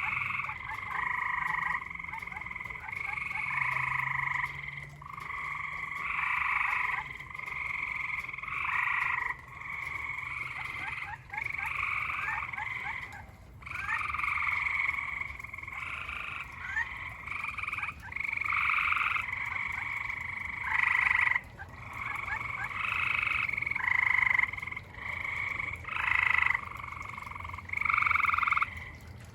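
A chorus of backyard frogs calling: overlapping pulsed trills, each lasting a second or two, following one another with only short gaps.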